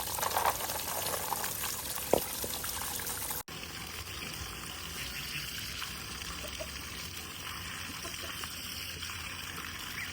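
Water trickling steadily, interrupted by a sudden cut about a third of the way in, with a small click before it.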